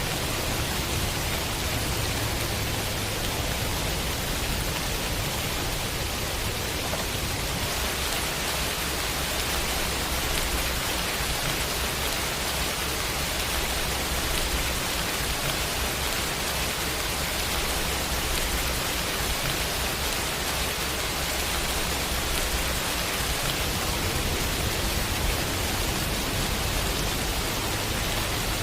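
Heavy, steady rain: a dense, even hiss of downpour with no break.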